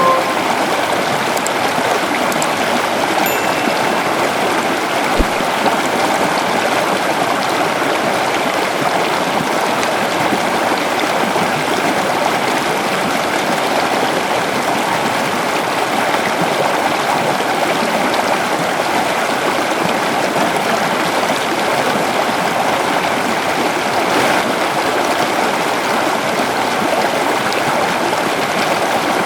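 Gentle river flowing: a steady, even rush of running water. There is one brief low bump about five seconds in.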